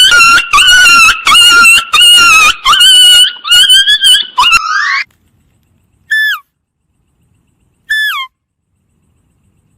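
High-pitched animal calls: a quick run of loud calls for about four and a half seconds, then three short separate calls, each falling in pitch.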